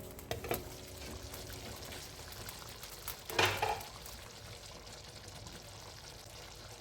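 Food cooking in a pan, with a faint steady sizzle or simmer. A few light clicks of a utensil come in the first second, and a louder brief stirring noise comes about halfway through.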